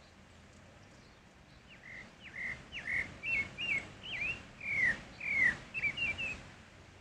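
Pale-breasted thrush (sabiá-barranco, Turdus leucomelas) singing: one phrase of about a dozen varied whistled notes, some slurring downward, starting about two seconds in and ending shortly before the end.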